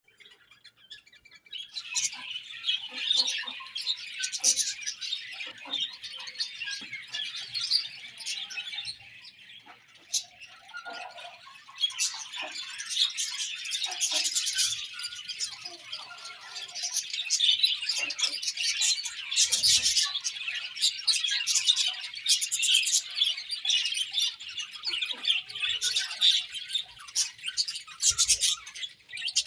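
A group of budgerigars chirping and warbling together: a dense, continuous chatter of high chirps with sharp squawks. It starts about a second and a half in and thins briefly about ten seconds in.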